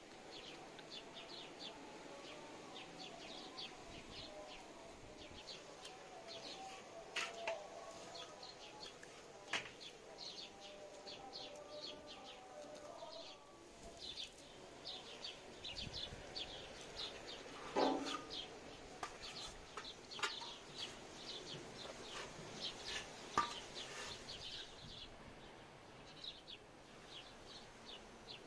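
Small birds chirping over and over in many short, high chirps, with a few sharp clicks or knocks, the loudest a little past the middle.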